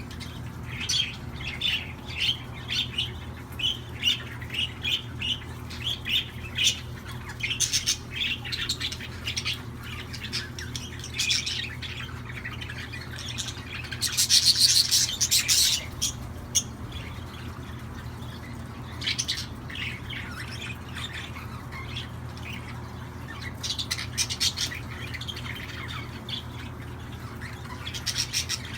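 Pet budgerigars chirping and squawking in a rapid series of short high calls, with a louder, denser burst of chattering about halfway through. A steady low hum runs underneath.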